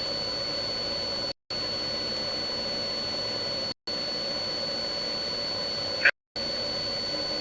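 A steady mechanical drone with hiss and a constant thin high whine. It cuts out completely for a split second three times, with a brief crackle just before the last cut, about six seconds in.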